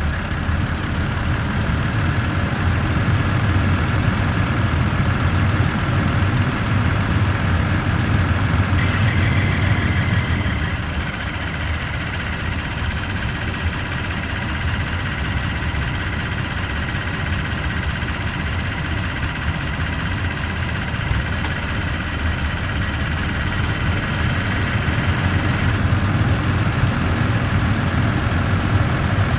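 Toyota Tacoma TRD Off-Road engine running steadily, with a high-pitched ticking that starts about nine seconds in and stops about 25 seconds in; the owner calls it a weird sound and its cause is unknown.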